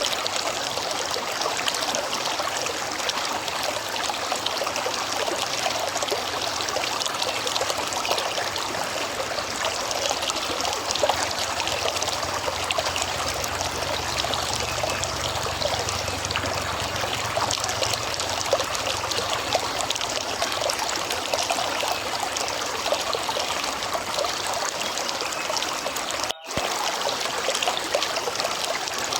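River water flowing and trickling steadily over rocks, with a brief cut-out of the sound about three seconds before the end.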